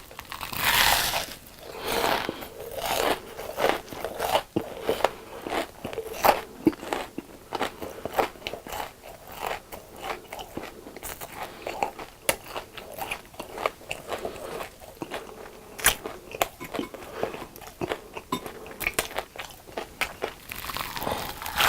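Someone biting and chewing crispy fried food, a steady run of crackling crunches with a louder bite about a second in.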